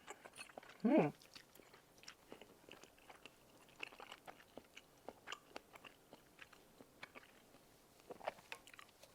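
Close-up chewing and soft mouth smacks and clicks of someone eating spicy tteokbokki rice cakes, with a brief voiced hum about a second in.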